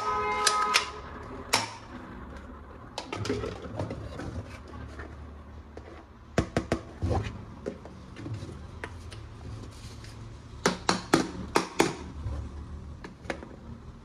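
Sharp clicks and knocks of plastic toy guns and their parts being handled, coming in bunches about six seconds in and again near eleven seconds. A short electronic tone sounds at the very start.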